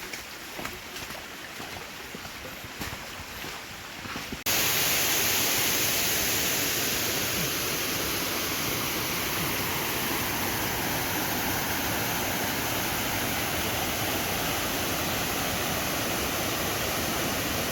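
Waterfall: steady rushing of falling water that cuts in suddenly about four seconds in and stays loud and even. Before it, a quieter stretch of uneven rustling with scattered clicks.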